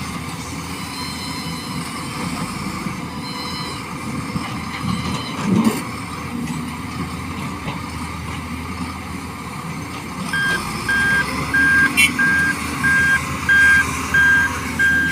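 Truck engine running steadily, with one short loud knock about five and a half seconds in. About ten seconds in a reversing alarm starts, beeping about one and a half times a second as the truck backs up.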